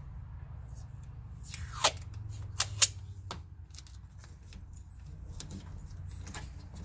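Tape being pulled off the roll and torn, with a few sharp snapping clicks about two to three seconds in, then small handling ticks.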